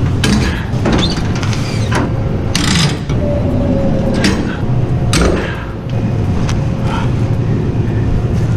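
A cargo-securement ratchet clicking and clattering in several short bursts as chains or straps are tightened over a steel coil load. A steady low rumble runs underneath.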